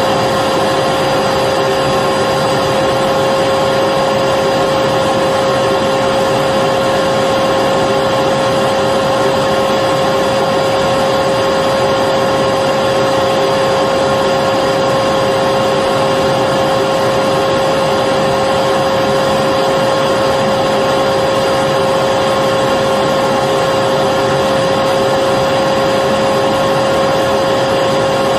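Electric vacuum cleaner running continuously at a steady speed: an even rushing of air with a constant high whine from the motor, unchanging throughout.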